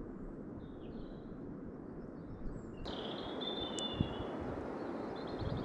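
Steady low rushing background noise, with small songbirds chirping and warbling from about three seconds in.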